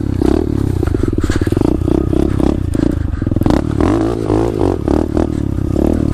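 SSR 125 pit bike's small single-cylinder four-stroke engine running under way, its pitch rising and falling with the throttle, with rattles and knocks from the bike going over rough ground.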